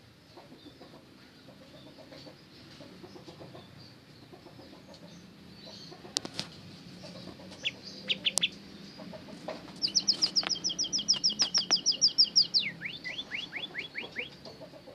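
A songbird singing: a few scattered high notes, then a fast, even trill of short down-slurred whistles about seven a second, ending in a run of slower, lower down-slurred notes.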